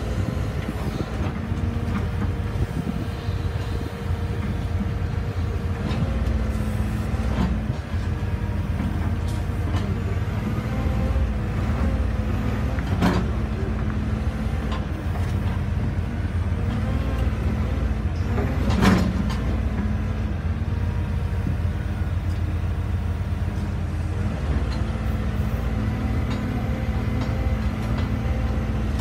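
Caterpillar 312E hydraulic excavator's diesel engine running steadily while it digs, with two sharp knocks about 13 and 19 seconds in, the second the louder.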